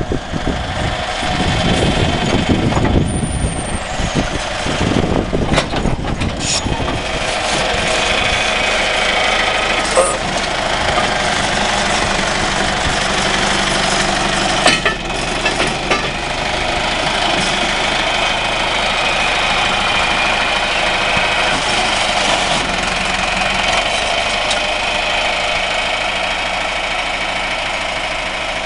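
John Deere 410 backhoe's diesel engine running steadily, with a few sharp metallic knocks in the first fifteen seconds.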